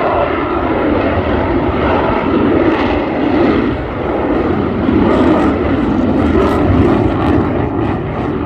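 Jet engine noise of an F-22 Raptor flying a slow pass: a loud, steady rumble that swells and eases slightly.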